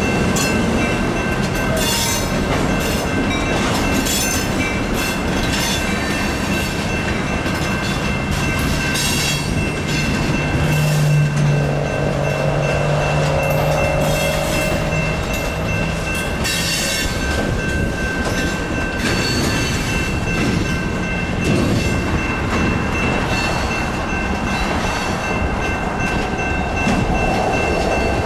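Freight cars of a Union Pacific local train rolling through a grade crossing, wheels clacking over the rail joints, while the crossing's GS Type 2 electronic bell rings steadily without pause.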